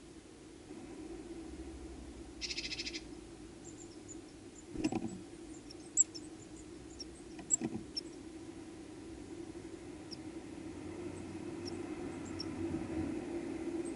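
Garden ambience: faint, short high bird chirps over a steady low hum, with a brief rapid buzzing call about two and a half seconds in. A few dull knocks and a sharp click come around five to eight seconds in.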